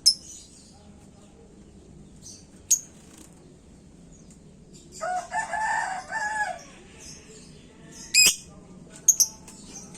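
Lovebird giving short, sharp, shrill shrieks, a few single ones and a quick pair near the end, with another bird answering in a longer, lower call, several notes long, about five seconds in.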